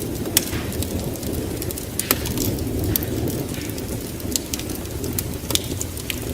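Wood fire crackling, with sharp irregular pops and snaps, over a steady low rumble of storm ambience (rain and thunder).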